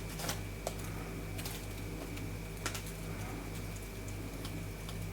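Scattered light clicks and taps of hands handling things at a worktable, over a steady low electrical hum.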